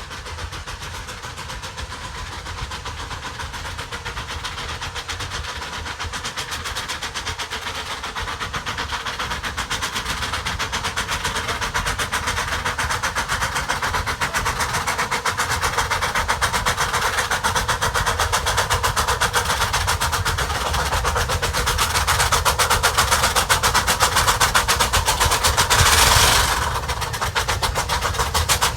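Several steam locomotives working hard together up a steep 4.25% grade: rapid, overlapping exhaust beats that grow steadily louder as the train draws closer. A loud, hissing surge comes about 26 seconds in.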